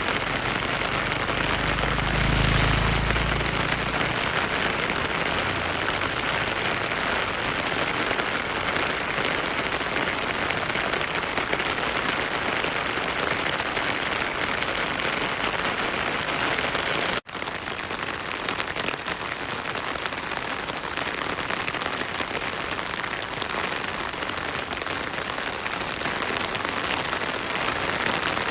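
Heavy rain falling steadily, with a brief low rumble about two seconds in; the sound cuts out for an instant about two-thirds of the way through.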